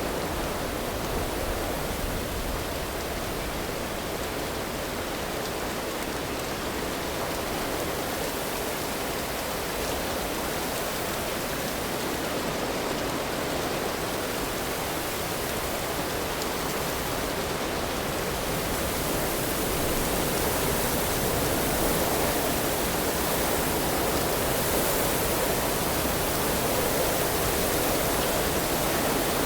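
Steady rain of a thunderstorm soundscape, an even hiss with no thunder claps. It swells slightly and turns brighter about two-thirds of the way through.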